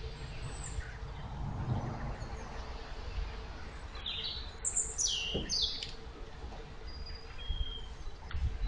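Small birds calling: a quick cluster of high chirps about halfway through, then a couple of short thin whistles. Underneath is a low rumble of water churned by an electric narrowboat's propeller, and a faint steady hum.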